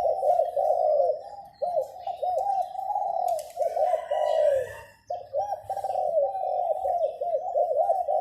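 Caged zebra doves cooing in rapid, rolling phrases that run on almost without pause, with a short break about five seconds in. Faint high chirps of small birds sound above them.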